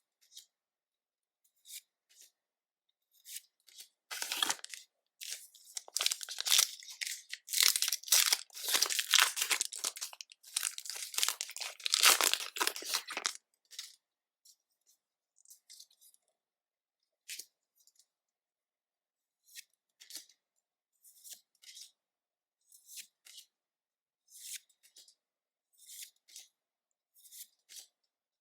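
Pokémon card packaging being torn open: several seconds of loud, crackly tearing and crinkling of wrapper material. After that come short, soft swishes about once a second as trading cards are slid and flipped one by one.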